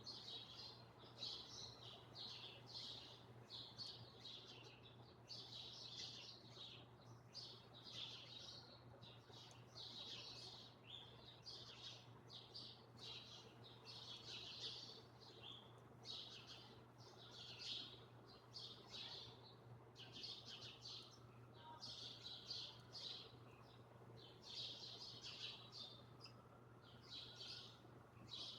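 Small birds chirping in quick, dense runs of short high notes with hardly a pause, over a faint steady low hum.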